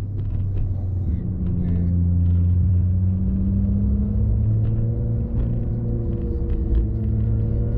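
Vehicle engine running under way, a steady low hum whose pitch climbs a little about a second in and again around four to five seconds, with scattered light clicks and knocks over it.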